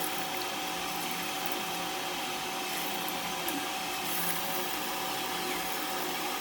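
A small motor running with a steady whirring hum and a constant high tone, unchanging throughout.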